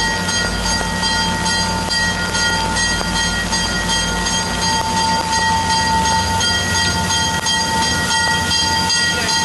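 A train's railcars rolling past: a steady rumble with faint regular clicking, under a continuous high-pitched tone.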